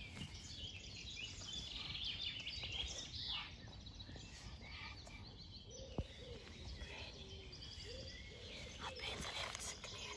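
Birds chirping and trilling faintly, with a single sharp click about six seconds in.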